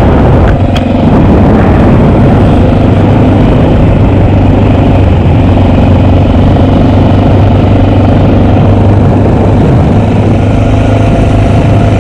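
Honda XR650L's single-cylinder four-stroke engine running loud at a steady, even note.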